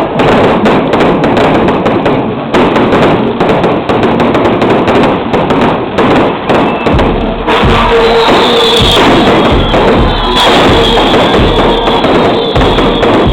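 Fireworks going off in a dense, continuous run of crackles and thuds, with music playing along. From about halfway in, steady tones come in on top of the crackling.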